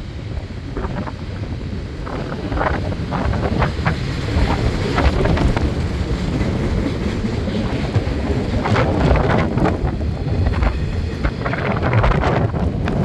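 BNSF double-stack container train rolling past, a steady low rumble of wheels on rail with short bursts of higher metallic clatter every few seconds. Wind buffets the microphone throughout.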